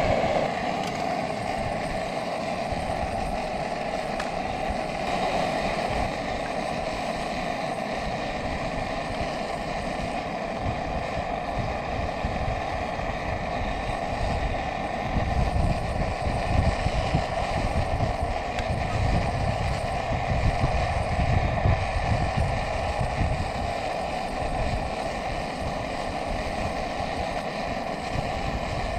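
Camp gas burner running at a steady, even roar, with wind buffeting the microphone in low gusts that grow stronger in the middle of the stretch.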